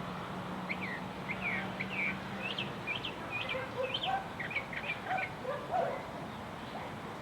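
A songbird singing a rapid series of short, high chirps for about five seconds, with some lower notes mixed in toward the end.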